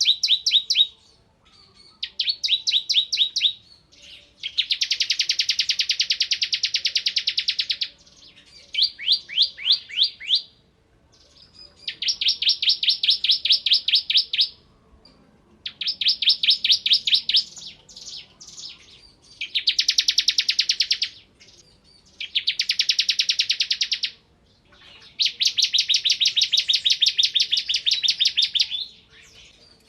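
Bar-winged prinia (ciblek) singing vigorously: repeated bouts of rapid, high, sharp notes, some spaced, others run into dense machine-gun trills. Each bout lasts one to three seconds, with short pauses between them.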